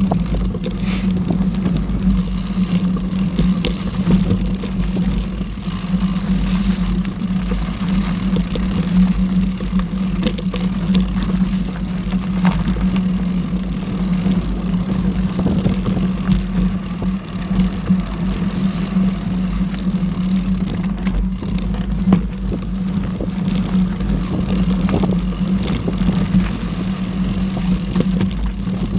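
Mountain bike being ridden along a dirt trail, picked up by a camera riding with it: a steady rumble of tyres and frame over the ground with small knocks and rattles, and wind on the microphone.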